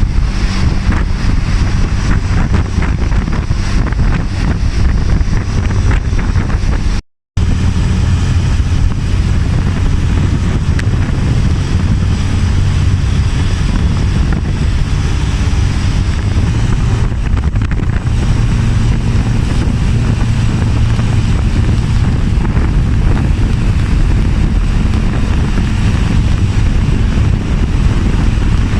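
Motorbike riding along, its engine running under heavy wind buffeting on the microphone. The sound cuts out for a moment about seven seconds in, then the same ride noise resumes.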